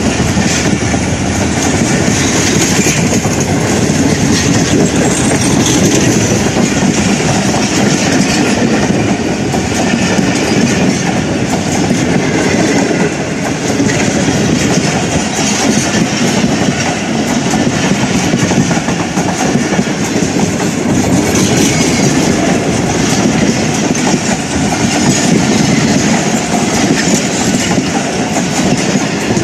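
Pakistan Railways passenger coaches of an express train rolling past close by, their wheels running over the rails in a loud, steady rush.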